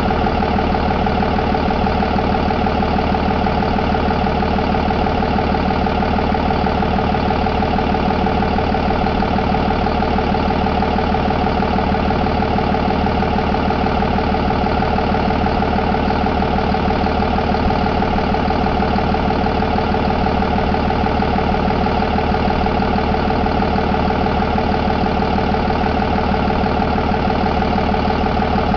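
Cummins B6.7 inline-six turbo diesel engine running steadily at one speed, with no revving.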